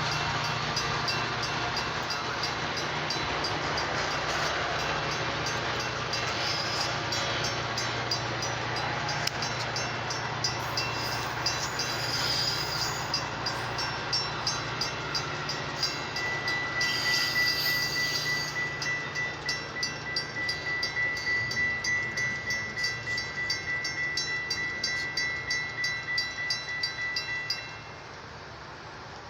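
Metra commuter train passing, a steady rumble with wheels clacking over rail joints in a quick regular rhythm in the second half, joined by a thin steady high tone from about halfway. The sound drops off suddenly near the end.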